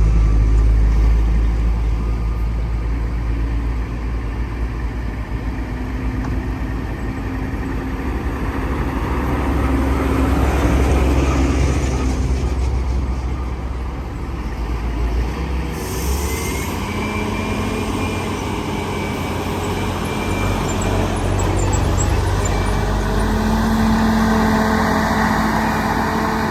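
Heavy diesel engines of an excavator and dump trucks working, a deep running rumble whose pitch rises and falls with the load. A short hiss comes about two-thirds of the way through.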